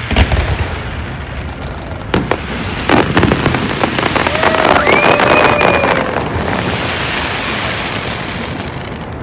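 Fireworks going off: a deep boom at the start, sharp bangs about two and three seconds in, then a dense crackling that swells and slowly fades.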